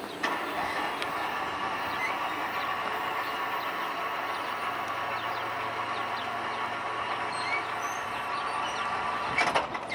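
Passenger railcars rolling past on jointed track: a steady rumble and hiss of steel wheels on rail, with faint ticks and brief squeaks. A louder clack comes about nine and a half seconds in.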